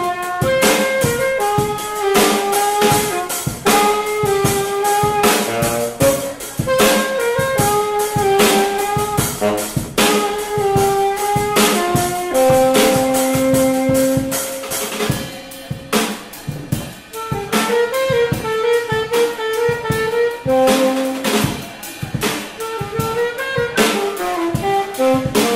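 Jazz band playing: a saxophone carries the melody over a busy drum kit.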